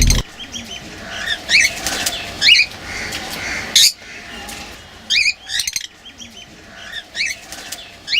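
African lovebirds calling: short, sharp rising chirps in clusters about every second.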